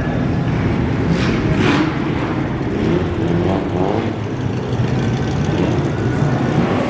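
Car engine running steadily, with two short hissing whooshes about a second and a half in.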